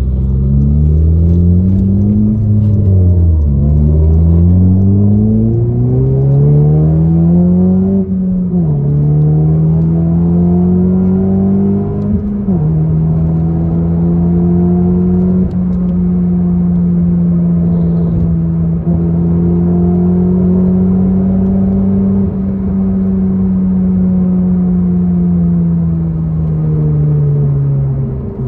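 Flash-tuned 9th-gen Honda Civic Si's 2.4-litre four-cylinder heard from inside the cabin, accelerating hard through the gears. Its pitch climbs and drops at each upshift, about three, eight and a half and twelve seconds in, then holds steady at speed before falling away as the throttle is lifted at the very end.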